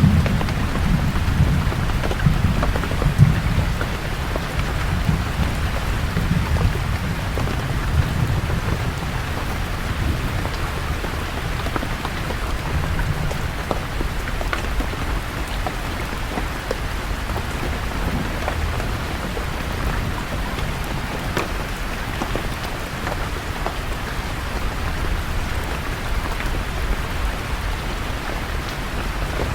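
Steady rain falling, with scattered drops ticking. A low rumble of thunder fades out over the first few seconds.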